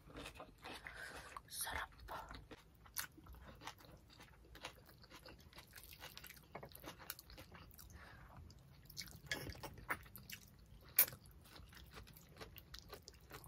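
Close-miked mouth sounds of people eating ginataang tilapia (tilapia stewed in coconut milk) and rice by hand: wet chewing and lip smacks with irregular small clicks. One sharper smack about eleven seconds in.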